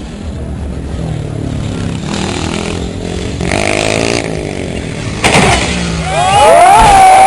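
Motocross bike engine revving up and down. Near the end it climbs steeply in pitch and holds a loud, high note at full throttle.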